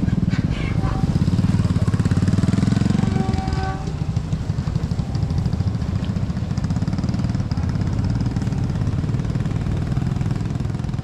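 Engine running close by: a steady low rumble with rapid even pulsing that eases slightly about four seconds in.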